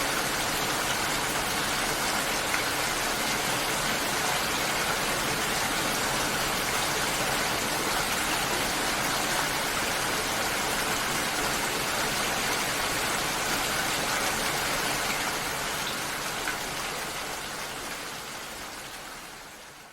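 Steady rain, an even hiss of falling water, fading out over the last few seconds.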